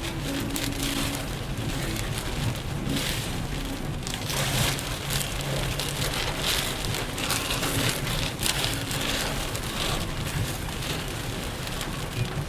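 Heavy rain pelting a moving car, the hiss swelling in surges every second or two over a steady low road and engine hum.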